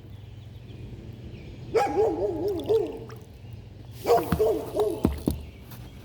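A dog barking in two quick runs of four or five barks each, about two seconds in and again about four seconds in, over a low steady hum.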